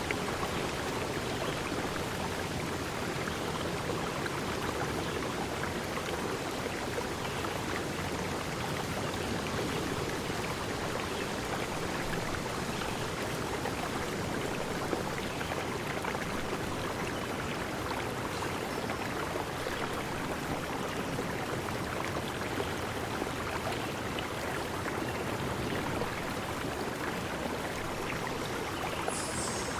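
Steady rushing of running water, even throughout, with a brief faint high sound just before the end.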